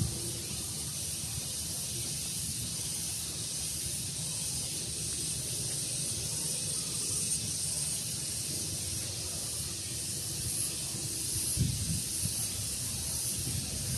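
Breeze on the microphone, a low rumble, under a steady high-pitched hiss, with a few low bumps near the end.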